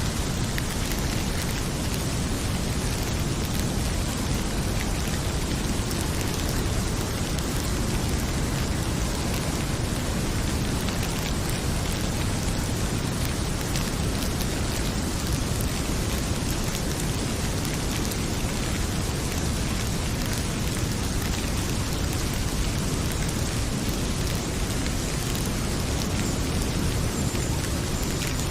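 Heavy rain pouring steadily, with a deep low rumble under it and faint scattered crackles from a fireplace.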